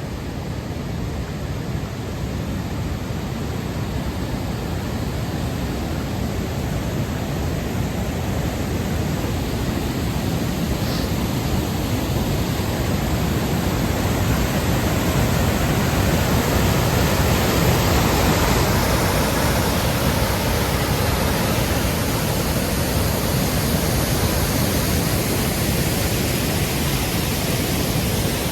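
Lower cascade of Virginia Falls rushing: a steady wash of falling water that grows louder over the first half as it is approached, then holds.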